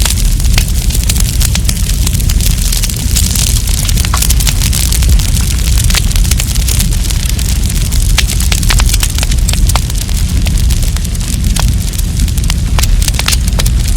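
Wood campfire crackling, with frequent sharp pops scattered irregularly over a steady low rumble and hiss.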